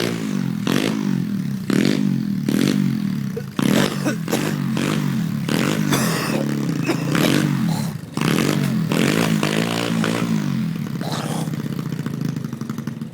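Pit bike's small single-cylinder four-stroke engine being revved in repeated surges, its pitch climbing with each burst of throttle and settling back, running loud throughout.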